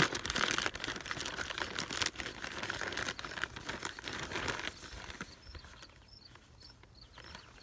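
Paper towel crinkling and rustling as it is handled and birdseed is shaken onto it, for about five seconds before it dies down. Near the end, faint high chirps repeat about three times a second.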